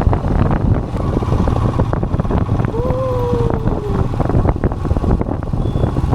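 Royal Enfield Himalayan's single-cylinder engine running steadily under way, with wind buffeting the microphone. A brief falling tone sounds near the middle.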